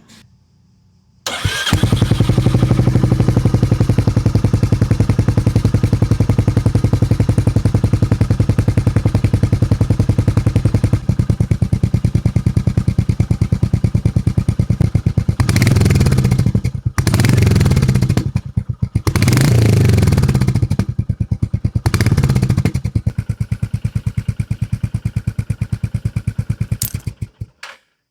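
Royal Enfield Hunter 350's single-cylinder engine started about a second in, idling with an even beat. It is revved briefly four times about halfway through, settles back to idle, and is switched off near the end.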